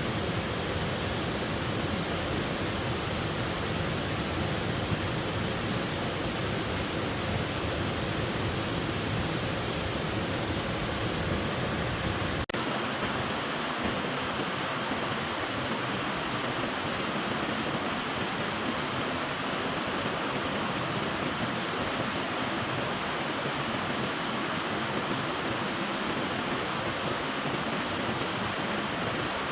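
Steady rush of falling water from a forest waterfall. About halfway through, the deep rumble drops away suddenly after a brief click, and the rushing continues at the same overall level.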